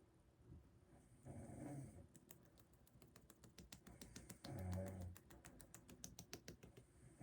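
Soft snoring, one breath about every three seconds, with a quick run of light clicking, like typing, from about two seconds in until shortly before the end.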